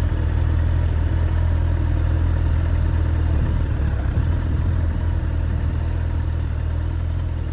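Suzuki Bandit 1200's inline-four motorcycle engine running steadily with a low, even drone, easing off slightly near the end.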